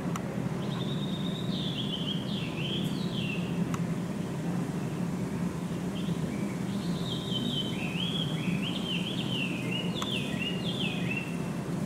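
A songbird singing two runs of quick, stepped, falling whistled notes, the second run longer, over a steady low hum.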